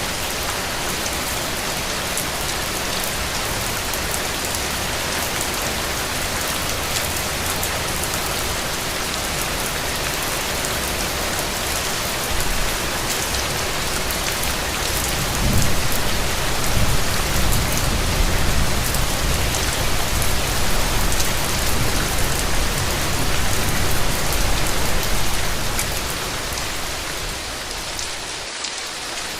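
Steady rain falling on hard surfaces, an even hiss with no pauses. About halfway through, a deep low rumble comes in and lasts about ten seconds before fading away.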